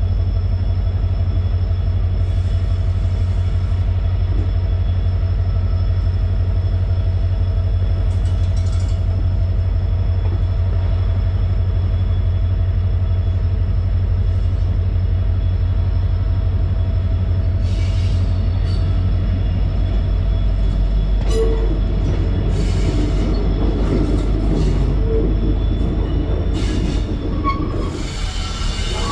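Passenger train running along the track, heard on board as a loud, steady low rumble. From about three-quarters of the way through, short squeaks and clanks join in.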